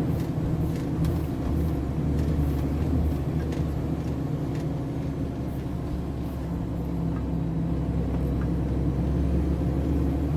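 MAN TGS 33.480 truck's diesel engine running steadily, a low, even drone with no change in speed.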